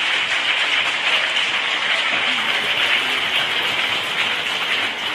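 Audience of children applauding after a Christmas carol: a steady, even patter of many hands clapping that eases off near the end.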